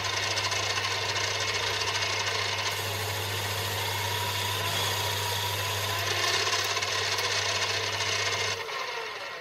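Metal lathe running under cut: a steady motor hum under a continuous scraping hiss as the tool takes material off a part mounted on the faceplate. The motor and the cutting stop about eight and a half seconds in.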